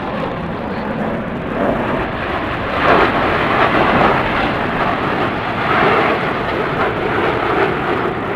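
Airplane engine noise from aircraft flying past: a steady roar that swells about three seconds in and again around six seconds.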